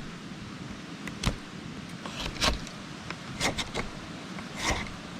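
A knife scraping and shaving bark off a maple sapling: a series of irregular short scrapes, some in quick clusters.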